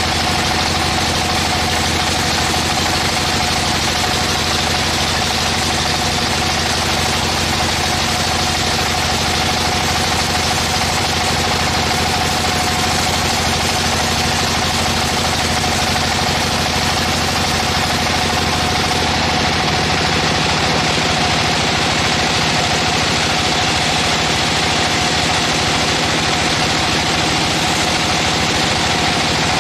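Sawmill machinery running steadily, a constant mechanical drone with a steady tone held over it.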